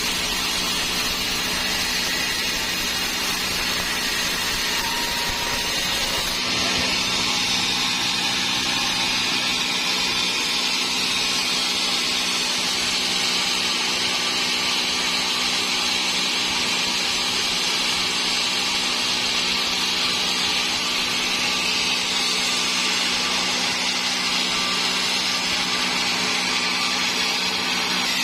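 Sawmill saw cutting through a dry teak log, running steadily over a constant motor hum; the sound of the cut shifts about six seconds in.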